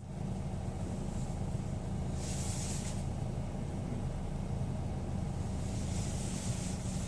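Chevrolet Orlando engine running steadily at idle, filmed to show an abnormal engine noise. A short burst of hiss comes about two seconds in and again near the end.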